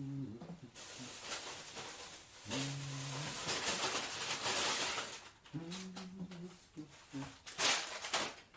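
Kitchen sounds during food preparation: a muffled voice in the background, a few seconds of steady hissing, and a sharp clatter near the end.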